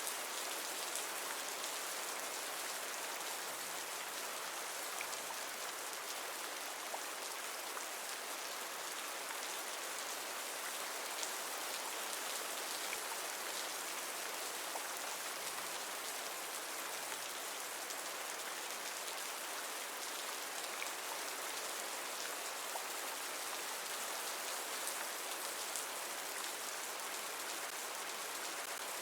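Steady rainfall, a continuous even patter with occasional distinct drops.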